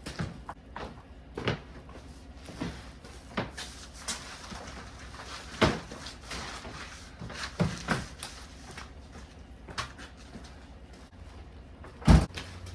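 Scattered knocks and clunks of materials and tools being handled, irregularly spaced, with one heavy thump near the end.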